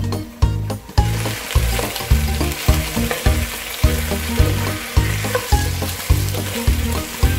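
Chicken wings sizzling in hot oil in a nonstick pan as they are stirred with a wooden spatula. The sizzle starts about a second in. Background music with a steady beat plays throughout.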